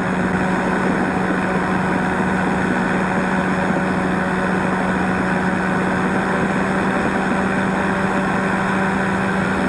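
Powered parachute's engine and propeller running at a steady cruise, heard from on board in flight: one even drone with a strong low hum that does not change.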